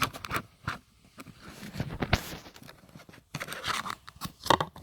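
Irregular clicks, scrapes and rustling at close range, with a brief noisy scrape about two seconds in and a cluster of sharp clicks near the end.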